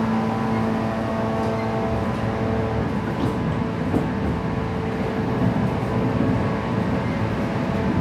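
JR West 117 series electric train running at about 110 km/h, heard from inside the passenger car as a steady rumble of wheels and rails. A motor hum is strong at first and fades after about two or three seconds, and there is a single sharp tick about four seconds in.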